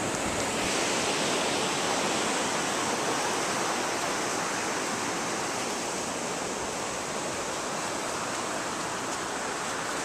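Ocean surf washing on the beach, a steady rush that swells slightly in the first few seconds.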